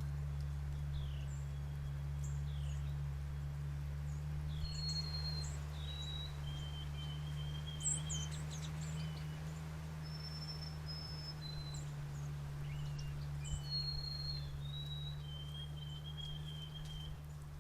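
Wild songbirds chirping and whistling, with short chirps and several long, level whistles scattered throughout, over a steady low hum.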